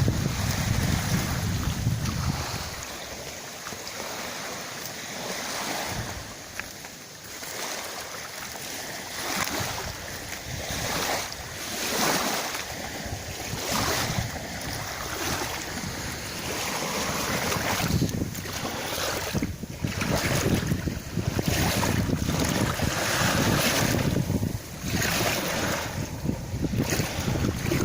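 Wind gusting through reeds, a rustling hiss that swells and fades in gusts. Wind buffets the microphone with a low rumble for the first couple of seconds and again near the end.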